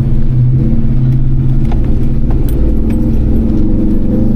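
Gen 1 Ford Raptor's V8 engine running steadily under load while driving on a dirt course, its pitch rising a little near the end, with light rattling clicks.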